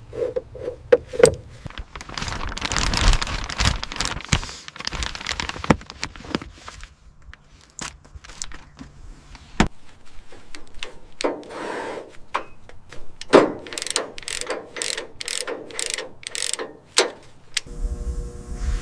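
Workshop mechanical sounds of metal tools and car parts: scattered clicks and clanks, a few seconds of hissing noise, then a quick run of about eight sharp metallic strikes near the end.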